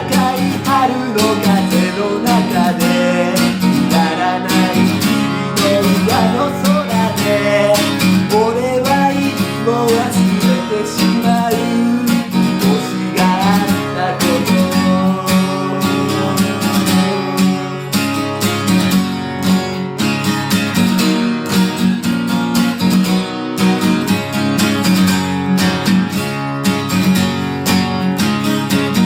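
Acoustic guitar strummed steadily in a regular rhythm.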